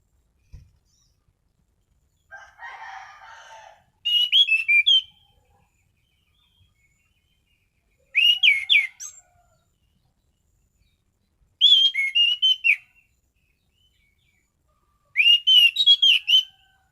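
Anis cendana thrush singing in four short phrases of quick, sharp whistled notes, each about a second long and a few seconds apart. A brief rustle comes just before the first phrase.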